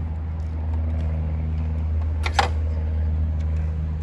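Steady low hum, with one brief sharp sound a little over two seconds in.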